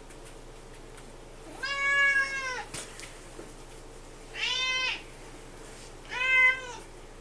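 Domestic cat meowing three times, each meow arching up and falling in pitch, the first the longest. It is a complaining cat wanting attention, which the owner says is not happy at being ignored.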